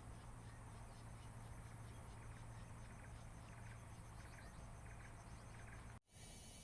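Faint, rhythmic chirping of night insects over a steady low hum; the sound cuts out abruptly near the end.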